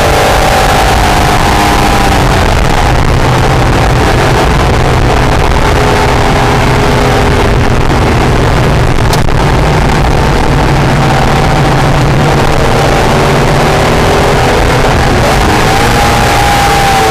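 Acura NSX's mid-mounted V6 running hard on track, heard over heavy wind and road noise. The engine pitch slides down at first, holds fairly steady, then rises and falls again near the end.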